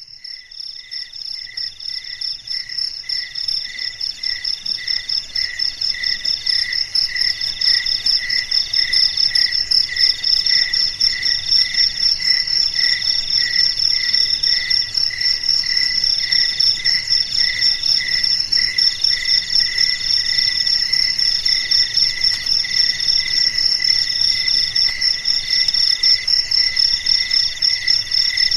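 Crickets chirping in a steady chorus: several pulsed trills at different pitches overlap, one of them repeating in phrases a little over a second long. The chorus fades in over the first few seconds.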